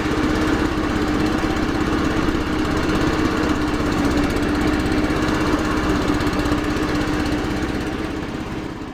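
Engine of a restored MTD SN 150 A ride-on mower running steadily, fading out near the end.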